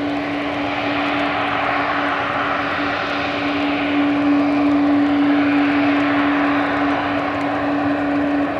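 Jet engines of a Boeing 737 airliner coming in to land: a steady roar with a held hum beneath it, swelling slightly about halfway through.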